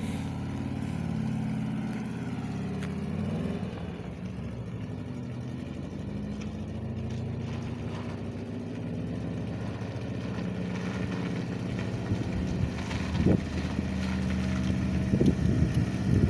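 Citroën GS Club's air-cooled flat-four engine running as the car is driven slowly, growing louder as it comes closer, with a few short surges of revs near the end. Its exhaust silencer is holed.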